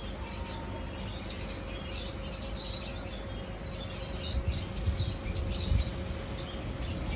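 A flock of small cage birds chirping rapidly and continuously, with short high calls overlapping and a brief lull around three and a half seconds in. A few low thumps come about four to six seconds in.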